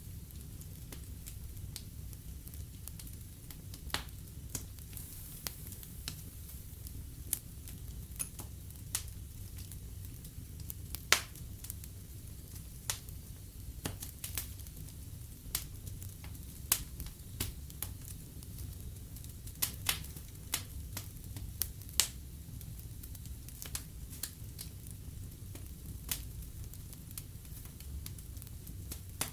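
Wood fire burning in a fireplace: a steady low rumble of flames with irregular crackles and occasional sharp pops.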